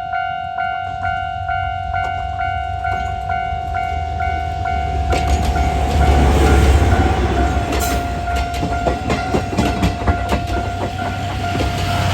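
A level-crossing bell ringing about twice a second as a diesel locomotive approaches and passes. The engine rumble swells about halfway through, and a run of wheel clicks over the rail joints follows.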